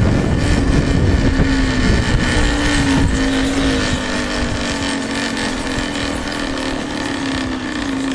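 Small single-cylinder lawn mower engine on a motorized bicycle, running at a steady pitch. A heavy low rumble under it eases off about three seconds in.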